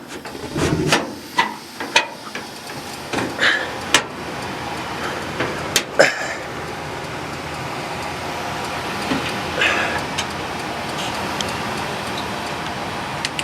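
Sharp metallic clicks and knocks from handling a 1990 Heil gas furnace's panels and controls. After a loud click about six seconds in, the furnace settles into a steady rushing hum as it runs.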